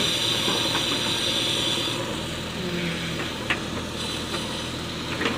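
Heavy diesel engine running steadily, with a hiss that stops about two seconds in and a couple of sharp knocks later on.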